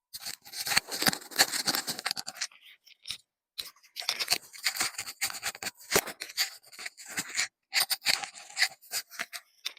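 Plastic candy bag crinkling and crackling as it is handled and torn open, in two long stretches with a short pause between them.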